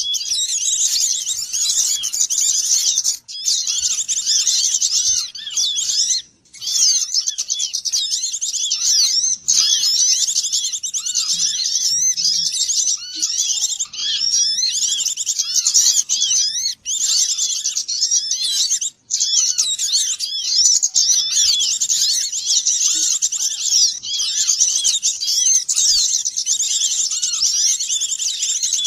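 Lure recording of a dense chorus of small songbirds twittering and chattering all at once, many quick chirps overlapping without pause, as used to draw wild small birds in for trapping. It briefly cuts out a few times.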